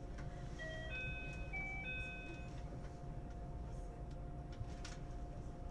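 Door-closing chime of a 521-series electric train: a short tune of a few clean electronic notes, over the steady hum of the train at rest. A few faint knocks follow as the doors shut.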